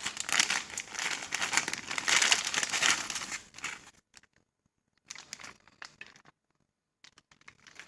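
Plastic bag of string beans crinkling as it is handled, loud for about three and a half seconds, then stopping, with a few fainter crinkles later.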